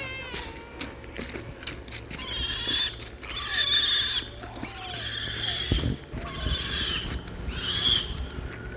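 Pig squealing in about five harsh, drawn-out cries, loudest around the middle and near the end, as it is held after being caught.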